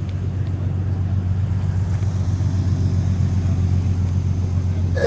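A car engine idling steadily with a deep, constant low tone.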